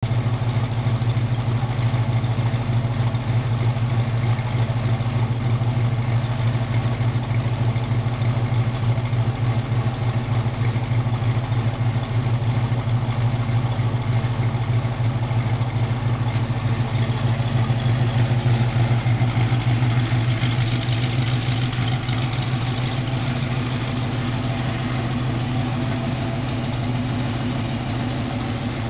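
Ford 351 V8 idling steadily with a bit of a cam, a mildly hotter camshaft, in it.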